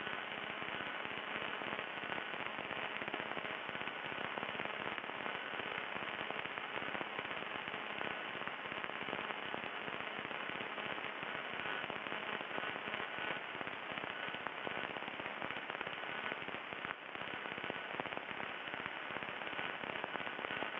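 Steady crackle and hiss of static on a light aircraft's radio and intercom audio feed. The radio was crackling badly.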